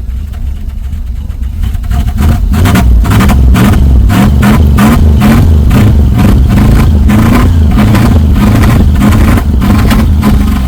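Old carbureted station wagon engine running loudly just after a cold start, brought up to higher revs about two seconds in and held there with an uneven, pulsing beat.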